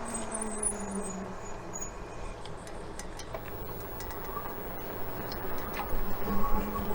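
Riding noise of a fat-tire electric bike: steady wind and tyre rumble with a faint high whine and scattered light clicks, growing louder near the end.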